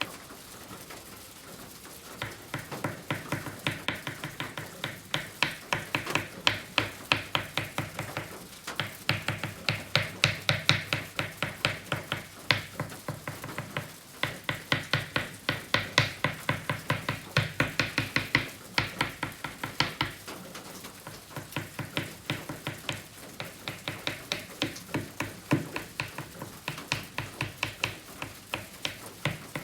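Malevich oil pastel stick rubbing on kraft paper in quick, short repeated strokes, about four a second, with a few brief pauses.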